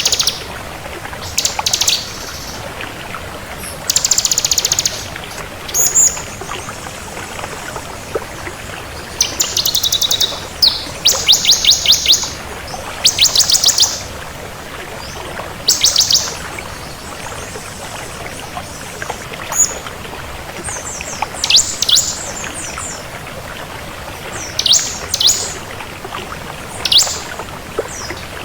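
Bar-winged prinia (ciblek kristal) singing: short, high, rapid trilled phrases, repeated every second or two, over a steady background hiss.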